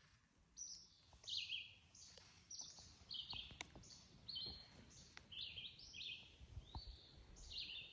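Faint birdsong: a small bird singing a steady run of short, high chirping notes, one after another, with a few light clicks.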